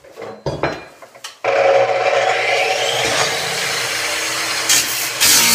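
A few knocks, then about a second and a half in a power saw starts suddenly and runs steadily, cutting at the back of a Sub-Zero refrigerator.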